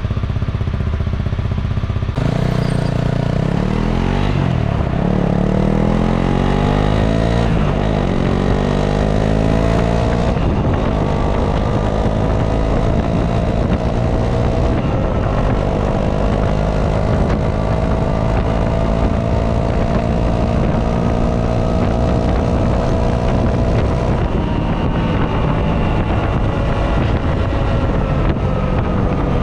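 Honda CRF250 Rally's single-cylinder engine running through its stock exhaust. About two seconds in the engine note picks up and climbs for several seconds, then holds fairly steady before easing down near the end.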